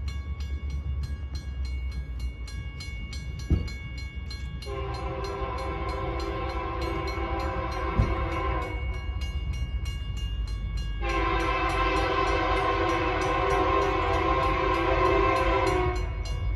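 Diesel locomotive horn sounding two long chord blasts, the first about four seconds and the second about five seconds long, over the steady low rumble of the passing train. Two sharp knocks come before the first blast and near its end.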